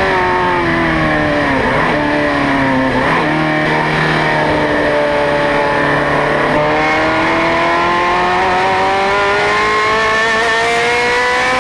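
Ferrari 430 Scuderia's V8 engine at racing speed: its pitch falls with a couple of brief breaks over the first few seconds, holds low, then rises steadily through the second half as the car accelerates.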